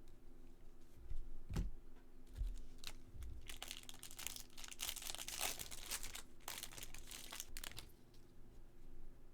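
Foil wrapper of a baseball card pack crinkling and tearing as the pack is opened, with a couple of soft knocks first.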